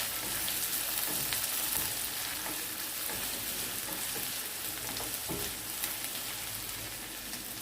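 Onions and crushed ginger-garlic frying in hot sesame oil in a pan, a steady sizzle, with a few light scrapes of the spatula as they are stirred.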